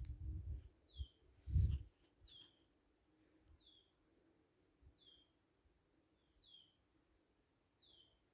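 A bird repeating a two-note call over and over, a short high note followed by a downward-slurred note, about once every second and a half. Low rumbling thumps come at the start and, loudest, about a second and a half in.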